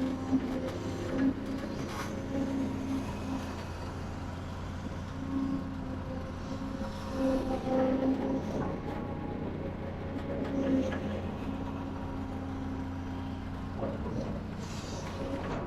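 Diesel engine of heavy construction machinery running with a steady drone that strengthens and eases every second or two, as under changing load.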